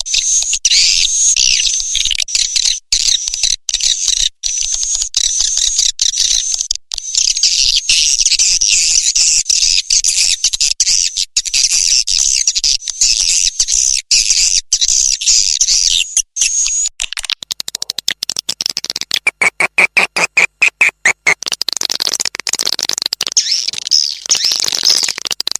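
Recorded swiftlet calling sound of the kind played to lure swiftlets into a nesting house: dense, high-pitched twittering chirps, cut by short gaps. About 17 seconds in it changes to a rapid stuttering pulse with a steadier, lower tone for a couple of seconds, then the high twittering returns.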